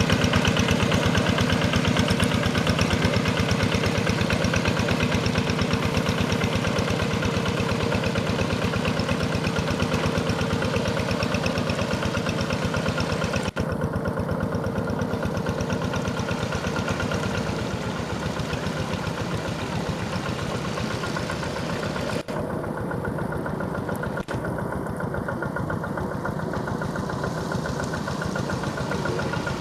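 Single-cylinder diesel engine of a Quick G1000 walking (hand) paddy tractor running steadily with a fast, even chugging pulse. The sound drops out for an instant three times, in the second half.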